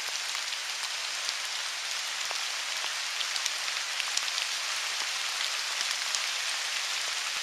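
Steady rain falling on leaves and the forest floor, an even hiss with scattered faint drop ticks.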